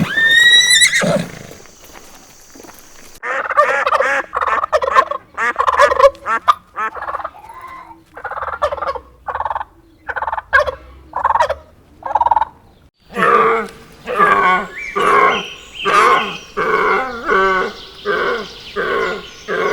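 Turkeys gobbling in a long series of short warbling calls that come a little over once a second. A brief high rising call comes first, and the calls grow louder and closer together about two-thirds of the way in.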